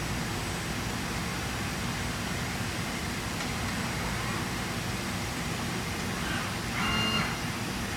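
Steady machinery noise of a machine shop, with a short pitched sound about seven seconds in.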